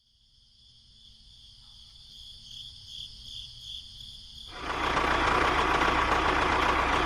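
A small motor running with a steady whine. It is faint at first, then starts up much louder about four and a half seconds in.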